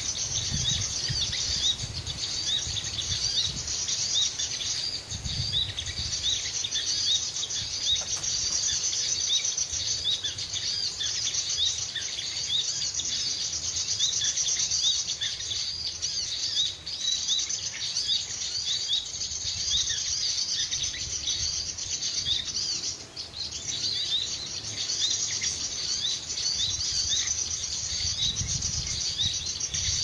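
Small birds chirping continuously: many quick, high, overlapping chirps repeating without a break, over a low rumble.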